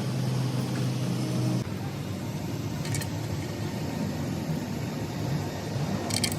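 Bulldozer diesel engine running steadily, its tone changing abruptly about one and a half seconds in, with two short clicks later.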